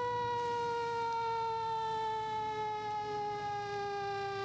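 A siren's long held wail, gliding slowly down in pitch.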